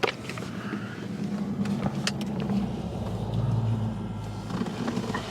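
A car running, its low engine and road hum growing louder around three to four seconds in, with a few faint clicks over it.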